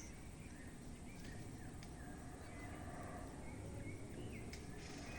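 Faint bird calls, a scattering of short chirps and whistles, over a steady low background rumble.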